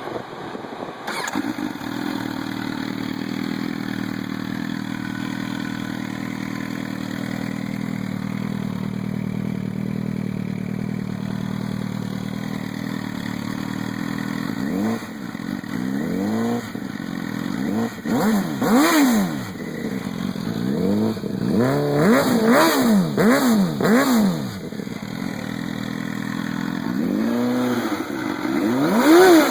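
MV Agusta F4 1000R inline-four idling through open Arrow exhausts with the dB-killers removed, then blipped again and again, the note rising and falling with each throttle stab from about halfway, settling briefly before a last run of revs near the end.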